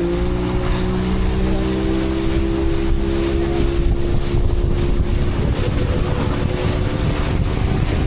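Outboard motorboat running at speed, a steady engine drone over rushing water and wind buffeting the microphone.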